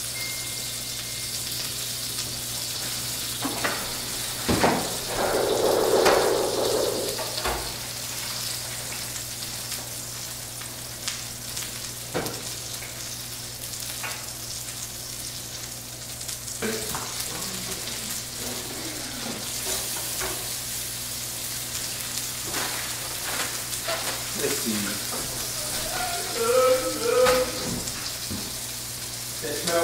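Burger patties frying in a hot pan: a steady sizzle, with a few short knocks from the pan.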